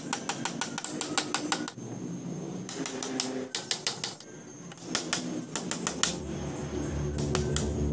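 Bursts of rapid, light, sharp tapping, several taps a second, in groups separated by short pauses.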